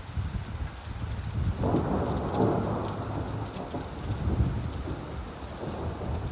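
Steady rainfall with a low rumble, and a roll of distant thunder that swells up about a second and a half in and slowly fades.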